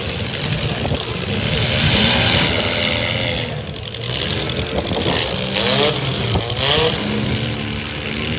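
Engines of several small demolition-derby cars running and revving hard, pitch rising and falling as they maneuver, over a steady din.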